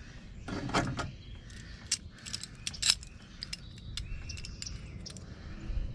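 Small metal lock parts and hand tools clinking and clicking as they are handled, with a rustle just under a second in and a sharp click about three seconds in.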